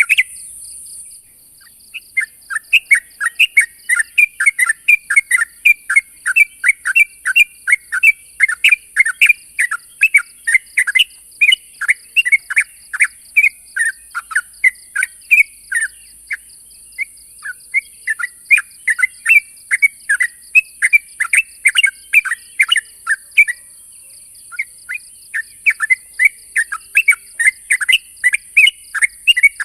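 Yellow-vented bulbul (trucuk) calling: a fast, unbroken series of short, loud, downward-sweeping chattering notes, about three a second, pausing briefly just after the start and again near the end, over a steady high hiss.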